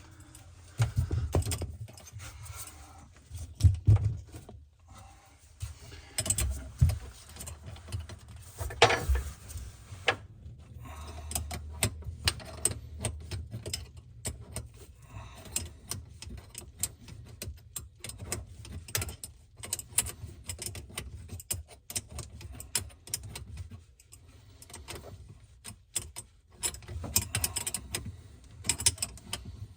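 Irregular clicking, clinking and knocking of metal plumbing tools and fittings being handled while assembling a supply line, with a few louder knocks in the first ten seconds.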